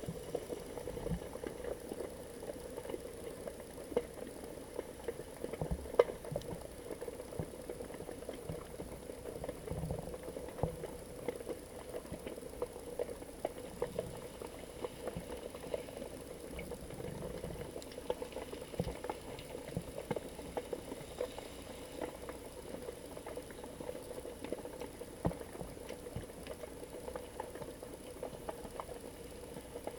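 Underwater sound picked up by a GoPro in its waterproof housing: a dense, irregular crackle of small clicks and pops over a steady hum.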